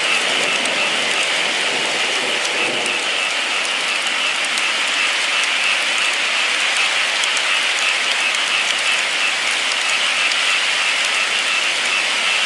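Steady heavy rain falling and pattering on a surface, a dense even hiss with many small drop ticks.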